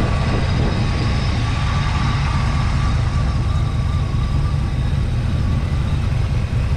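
The 1980 Pontiac Trans Am's turbocharged 4.9-litre V8 idling steadily, heard with the hood open. Its rumble is deep and even, with a faint high whine over it.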